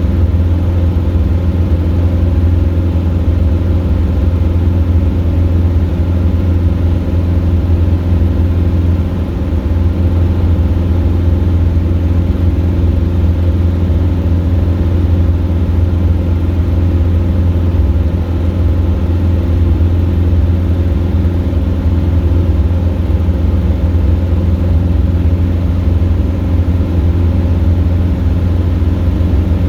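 Robin DR400 light aircraft's piston engine and propeller running steadily at power, a loud constant low drone, dipping slightly for a moment about nine seconds in.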